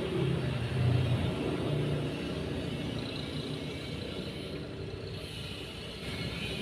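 A motor vehicle engine rumbling nearby, loudest in the first two seconds and then fading to a steadier low rumble.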